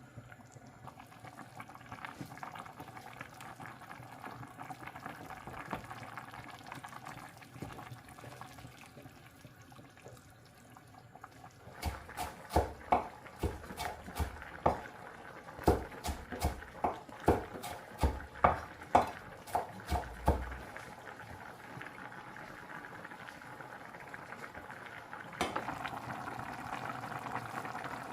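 Kitchen cooking sounds: liquid bubbling steadily, with a run of about fifteen sharp, irregular knocks from about twelve seconds in, lasting some eight seconds.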